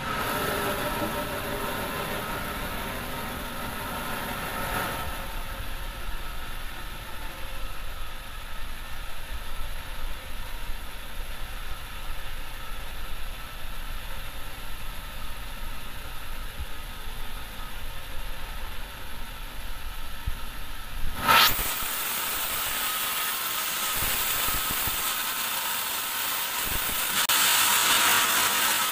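Sawmill bandsaw running steadily with a faint whine. About two-thirds of the way through it changes suddenly to a brighter, hissier sound.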